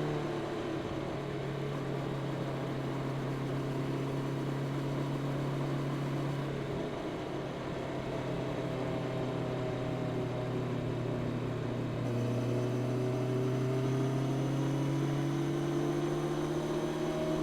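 Honda CB650R's inline-four engine through its stock exhaust, at riding speed: the revs drop at the start, hold steady for several seconds, then climb smoothly from about twelve seconds in as the bike accelerates.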